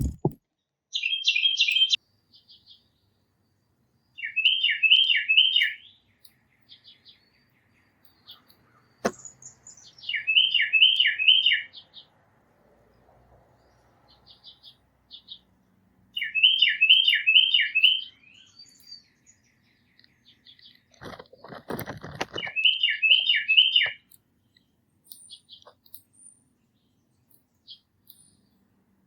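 A songbird sings a phrase of three or four quick, clear whistled notes, repeated about every six seconds, with faint chips in between. There is a single soft knock about nine seconds in, and a brief low rumble a few seconds before the last phrase.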